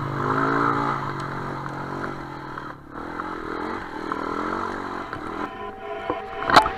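Enduro dirt bike engine revving up and down while riding off-road, with clattering and a sharp knock near the end.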